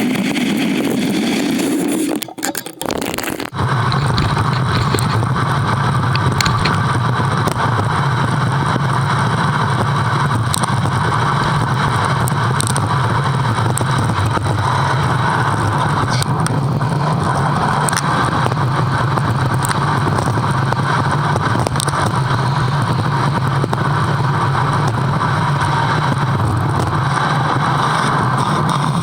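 Steady rushing wind and riding noise on a bike-mounted action camera during a ride. There is a brief break about three seconds in.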